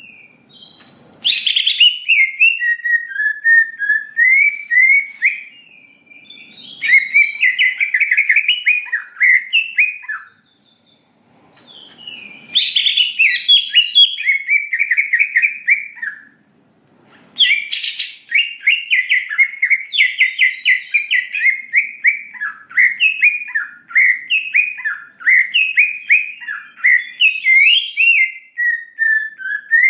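Green leafbird (cucak ijo) singing loud, continuous song: long phrases of rapid, varied chirps, warbles and trills, broken by a couple of short pauses, with sharp high notes opening some phrases.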